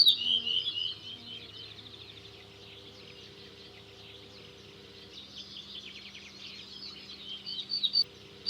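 Small birds chirping and twittering in quick high trills, loudest in the first second and again near the end, over a faint steady hum.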